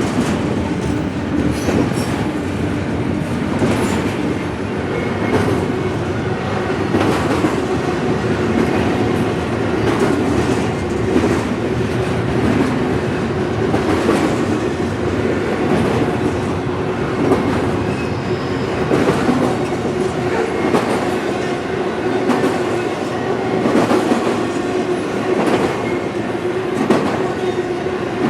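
Long CSX intermodal freight train rolling past: a steady rumble of railcars, with wheels clacking over rail joints and a light wheel squeal.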